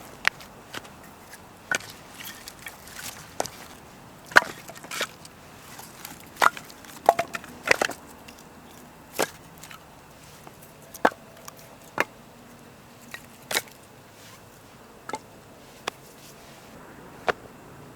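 Firewood being chopped or split by hand: irregular sharp wooden knocks, some louder than others, with splintering in places.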